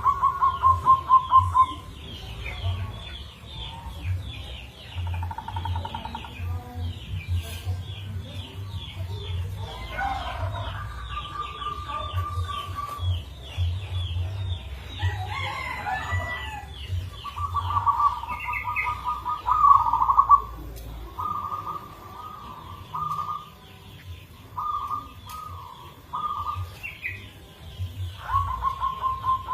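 Zebra dove (perkutut) cooing in repeated rolling phrases of fast pulsed notes, with pauses between phrases. A rapid series of small high chirps from other birds runs through the first half, and an uneven louder call comes near the middle.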